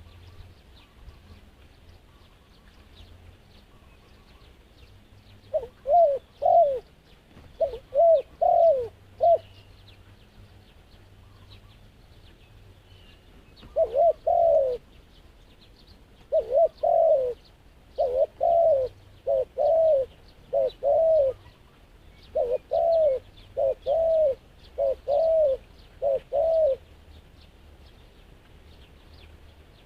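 Dove cooing: groups of short, arched coos, one phrase about six seconds in, a short burst around fourteen seconds, then a long run of coos that stops a few seconds before the end.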